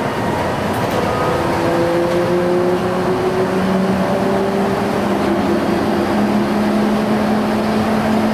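Yokohama Seaside Line 2000 series rubber-tyred automated train running on its guideway. The inverter-driven traction motors whine in several tones that rise slowly in pitch as the train picks up speed, over a steady running rumble.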